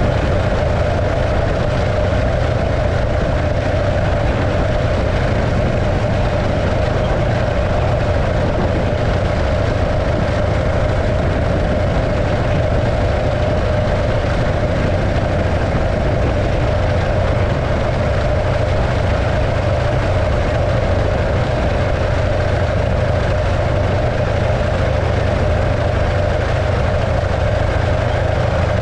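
A 1915 Arcade motorcycle's 650cc JAP V-twin engine running steadily, with a constant low rumble and an even mid-pitched drone that neither rises nor falls.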